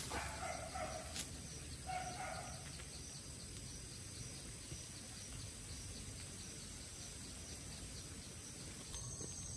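Two short bird calls about two seconds apart, then a faint steady outdoor background with an even, fine high ticking.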